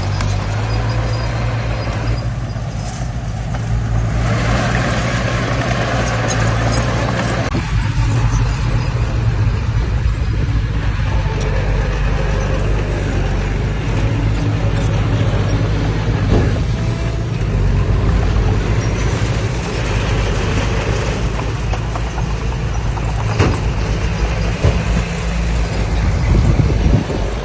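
Diesel engine of heavy earthmoving machinery running steadily with a low drone, with a few sharp clanks along the way.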